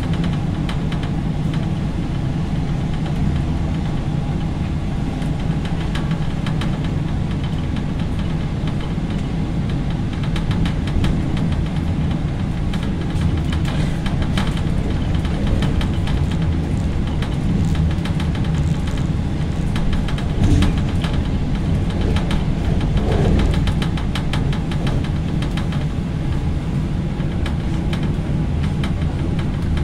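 Passenger train running along the track, heard from the rear end of the last carriage: a steady low rumble of wheels on rails. From about a third of the way in, runs of sharp clicks and clatter from the wheels on the track join the rumble, with a brief louder bump near the two-thirds mark.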